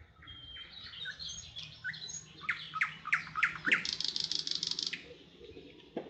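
Songbird song: a phrase of varied chirps and quick sweeping notes that builds into a fast, even trill of about a dozen notes, which stops abruptly about five seconds in.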